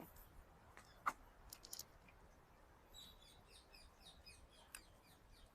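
Faint chirping of small birds: a quick run of short, high, falling chirps starting about halfway through. A single sharp click about a second in.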